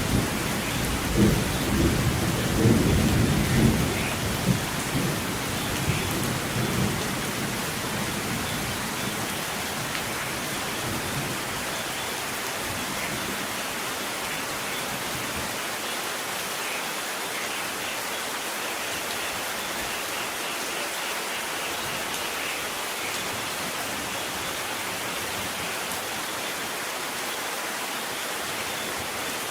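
Steady rain with a roll of thunder rumbling at the start that dies away over the first several seconds, leaving only the even hiss of rain.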